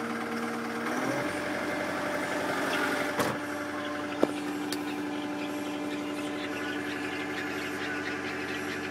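Kubota M100X tractor's diesel engine idling as it warms up. About a second in its speed steps up a little and then holds steady, with two short clicks around three and four seconds in.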